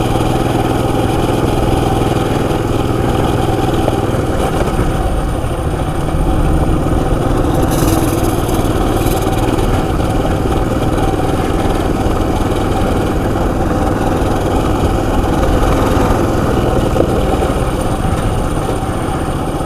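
Coleman CT200U EX mini bike's single-cylinder four-stroke engine running steadily while riding, its pitch shifting slightly about four seconds in.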